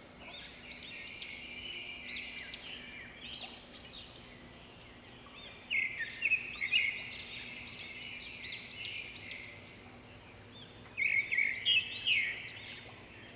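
Small birds chirping: many short, high, arched chirps overlapping, growing louder in bursts about six seconds in and again near the end.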